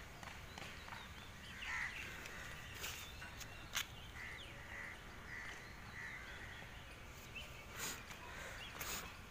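Outdoor ambience with a bird calling about five times in a row, evenly spaced. A few sharp clicks sound over it, the loudest a little under four seconds in.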